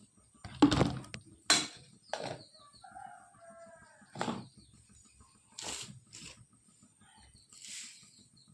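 Several sharp knocks and scrapes, with a short chicken call about three seconds in.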